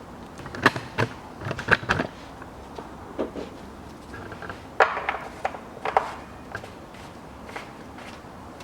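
A handful of separate sharp clicks and knocks from handling the coolant filler cap and the antifreeze jug, grouped in the first six seconds and then trailing off.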